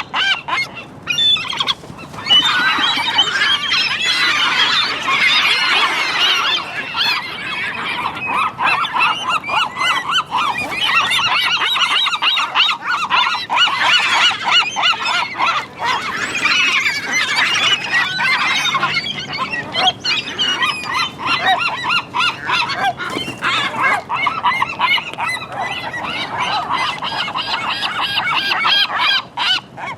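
A flock of gulls calling over one another without a break, a dense chorus of short repeated cries that gets louder about two seconds in.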